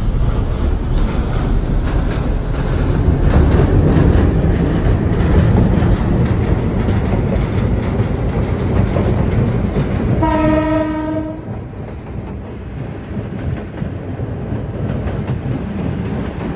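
Train passing with a continuous low rumble and wheels clattering over the rails. A single steady horn blast of about a second sounds about ten seconds in, after which the rumble drops quieter.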